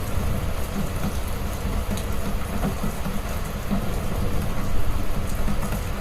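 Heavy rain falling steadily, with a deep low rumble underneath.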